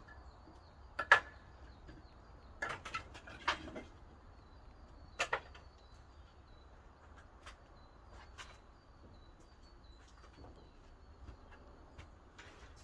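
Pine firewood at a wood-fired kiln giving a few sharp, irregular cracks and knocks, the loudest about a second in, with smaller ones scattered after.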